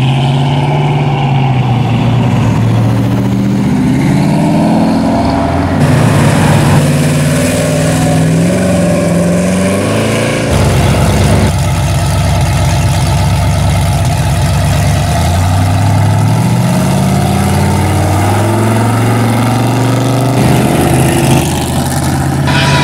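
Classic and hot-rod car engines revving and pulling away, the pitch rising and falling through the gears. About ten seconds in comes a heavy, lumpy low rumble of a big engine idling, and the sound changes abruptly several times as one car gives way to the next.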